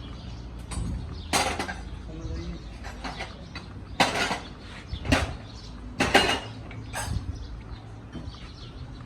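Metal tools and parts clinking and knocking: about five sharp strikes, the loudest about four and six seconds in, over a low steady background hum.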